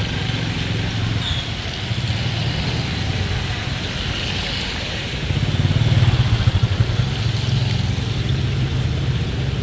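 An engine running steadily, growing louder and pulsing for a second or two past the middle.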